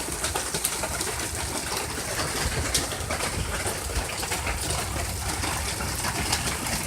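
Heavy rain falling steadily: an even hiss with many separate drops striking close by, over a low rumble.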